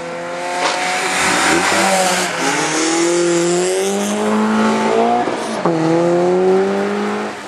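A slalom car's engine is driven hard through a cone course. It revs up, drops sharply twice (shifts or lifts between gates), then pulls up again, with tyre squeal through the first half.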